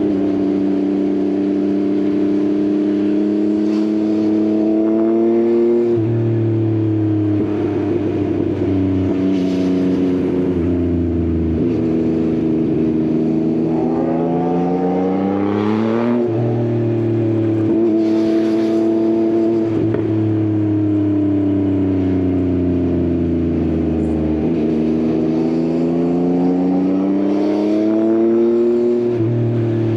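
Yamaha XSR900's three-cylinder engine through an Akrapovič exhaust on the move, its pitch rising and falling as it accelerates, eases off and changes gear. About halfway through it revs up hard and then drops suddenly at an upshift.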